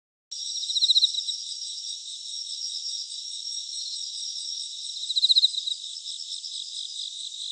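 High-pitched insect chirping, like a chorus of crickets, that starts and stops abruptly. It swells louder twice, about a second in and again near five seconds.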